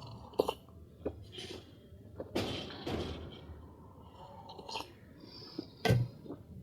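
Close-miked eating sounds: a few chewing and mouth noises, with scattered small clicks and knocks. The loudest knock comes near the end.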